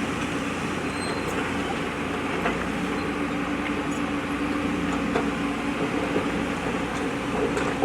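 Diesel engine of a JCB backhoe loader running steadily under work, with a few faint clicks and knocks scattered through.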